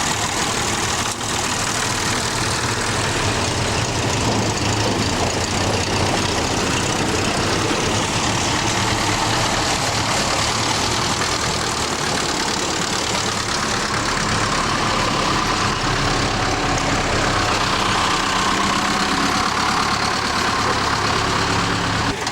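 Tractor diesel engine running steadily on the road, a continuous loud drone with road and mechanical noise; its low tone shifts a little about two-thirds of the way through.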